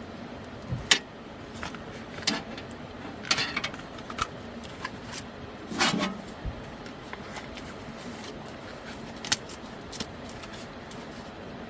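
Scattered clicks and knocks of small objects being handled, irregular and a few seconds apart, over a steady low hum. The sharpest knock comes about a second in and a longer clatter near six seconds.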